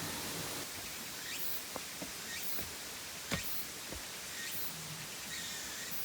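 Steady rush of flowing water from the waterfall, with a few sharp clicks, the loudest about a third of the way through, and faint high chirps about once a second.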